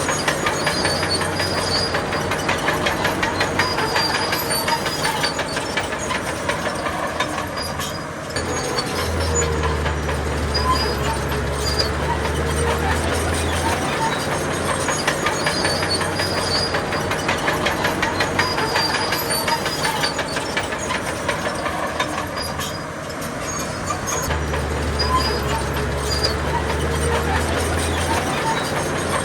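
Crawler bulldozer working: diesel engine running under a continuous fast clanking of steel tracks, with the engine's deep note swelling twice as it takes load.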